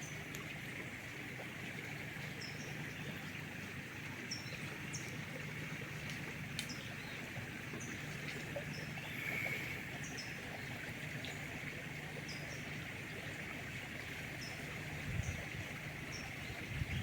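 Riverside ambience in rainforest: steady water-like rushing with a low steady hum, and short high falling chirps repeating about once a second. A couple of low rumbles come near the end.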